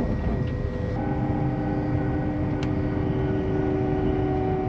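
LNER express train running at speed, heard inside the passenger carriage: a steady low rumble, with a steady hum of several tones coming in about a second in.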